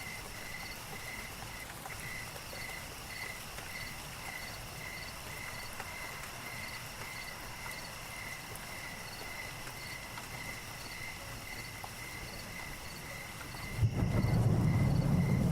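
Night ambience of crickets chirping steadily, about two chirps a second. About 14 s in, a louder bed of heavy rain with a rumble of thunder comes in suddenly.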